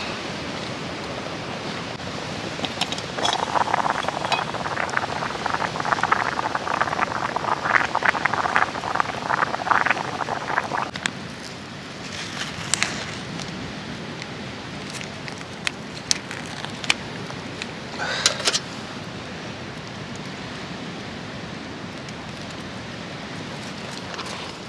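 Steady rushing outdoor noise. From about three to eleven seconds in there is a stretch of dense rustling and light clinking, followed by a few scattered clicks.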